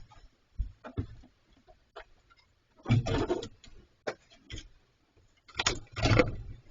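Bears handling an abandoned refrigerator: scattered knocks and clicks, with two louder short scraping, rustling bursts about three and six seconds in.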